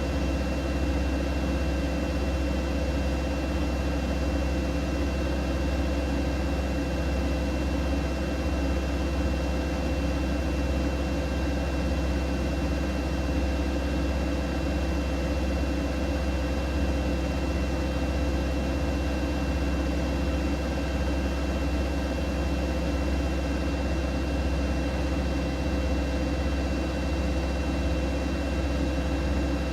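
Siemens Siwamat iQ 716 washing machine running steadily: a constant low motor hum and rumble with a faint high whine over it.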